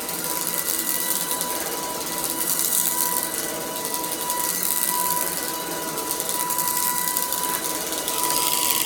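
Shark DuoClean cordless vacuum running, a steady high motor whine over a rushing hiss of air, its loudness swelling and dipping every second or two.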